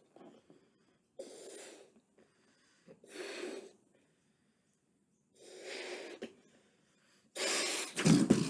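A person blowing hard breaths into a rubber balloon to inflate it: four separate puffs about two seconds apart, the last one the loudest and longest.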